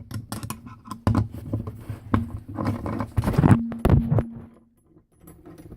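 Irregular clicks and taps of a screwdriver working a screw out of a Well VSR-10 airsoft rifle, with small parts knocking together as they are handled. The clicks pause briefly near the end.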